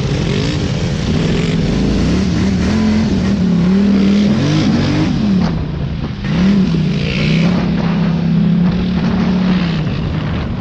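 Small off-road vehicle engine running under riding load, its pitch rising and falling over and over as the throttle is worked, with a brief dip about six seconds in.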